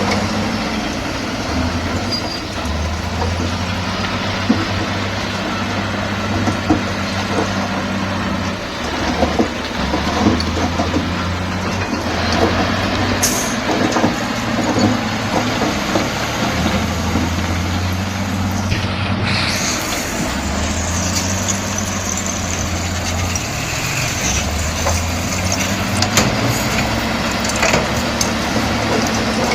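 Bulldozer's heavy diesel engine running, its note rising and falling every few seconds as the load changes, with scattered clanks and knocks.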